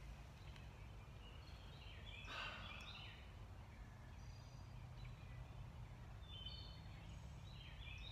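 Faint birdsong in woodland: scattered short chirps and calls, with one louder, harsher call about two and a half seconds in, over a low steady background rumble.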